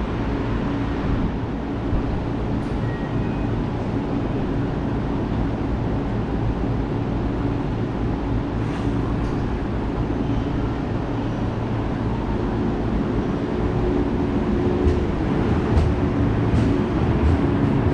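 Steady rumble of an electric commuter train at a station platform. It grows louder over the last few seconds as the train comes nearer, with a run of wheel clicks over the rail joints.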